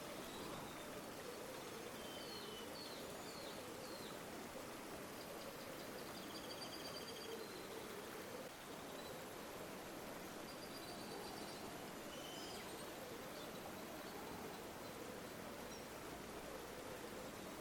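River water flowing steadily, with faint high bird chirps and short trills at a few points.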